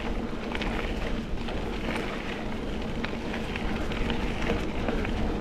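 Mountain bike rolling over a dirt and gravel trail: steady tyre noise with many small crackles and clicks from the ground.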